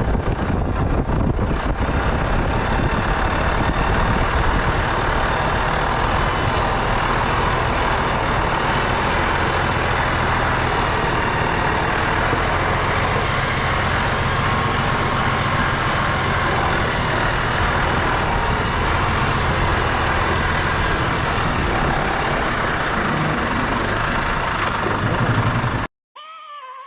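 Mercedes-Benz Actros L truck's diesel engine running at a steady pitch under a broad, even noise, which cuts off abruptly about a second before the end.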